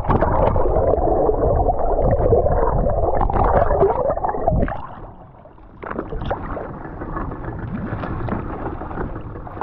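Muffled underwater sound as a diver enters the sea: a dense rush of bubbles and churning water for about four and a half seconds, then quieter underwater ambience with scattered sharp clicks.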